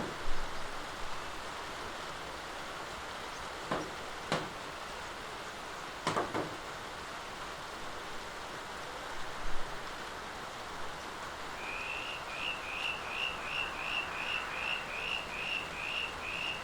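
Steady rain falling, an even hiss, with a few sharp taps about four and six seconds in. From about two-thirds of the way through, a rapid series of short high chirps repeats evenly, a little over two a second, over the rain.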